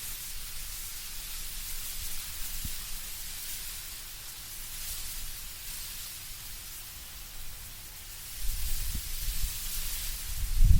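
Wind blowing through autumn trees, leaves rustling in a steady airy hiss. A deeper gust of wind swells in about eight seconds in and grows louder toward the end.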